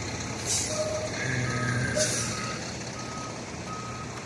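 Truck's reversing alarm beeping at one steady pitch, about one beep every three-quarters of a second, over a diesel engine's low running hum, with two short hisses about half a second and two seconds in.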